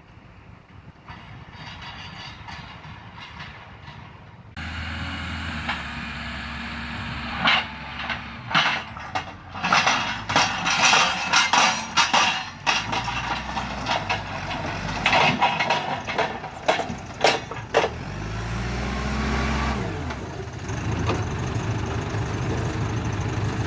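A vehicle engine comes in suddenly about four seconds in and keeps running. Through the middle come many loud rattles and bangs. Near the end the engine revs up and back down.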